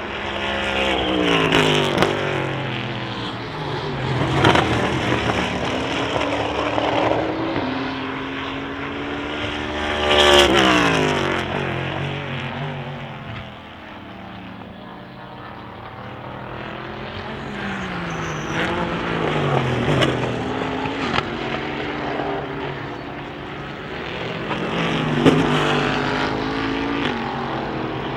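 Endurance race cars passing one after another at speed, each engine note falling in pitch as it goes by, with a lull in the middle; the loudest pass comes about ten seconds in.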